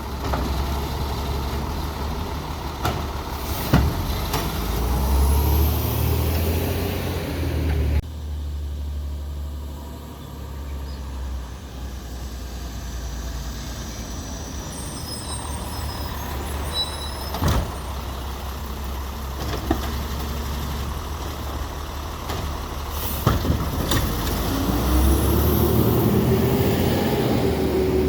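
Peterbilt 320 garbage truck with a Labrie Expert 2000 side-loading body, its diesel engine running steadily and revving up twice. A few sharp knocks come from the truck as it works.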